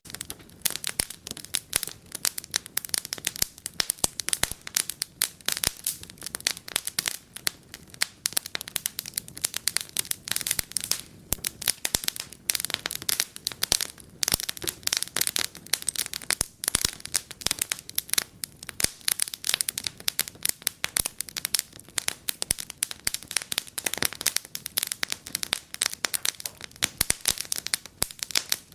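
Wood fire in a fireplace crackling and popping, with dense irregular snaps over a low hiss.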